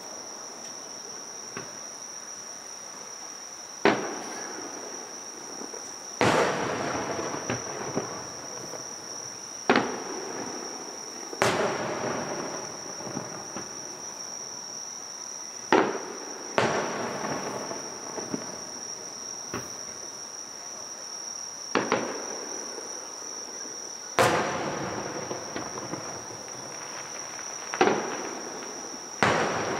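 Distant aerial fireworks shells bursting one at a time: about ten sharp booms a few seconds apart, each fading out over a second or two. Under them runs a steady high chirring of insects.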